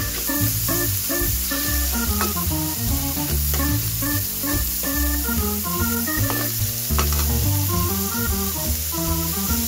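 Meat strips and garlic sizzling in a wok, stirred with a metal ladle that clicks against the pan a few times. Background music with a stepping melody and bass line plays throughout.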